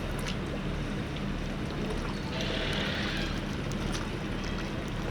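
Harbour ambience: a steady low engine hum over a wash of water and wind noise, with scattered light clicks and a brief hiss about two and a half seconds in.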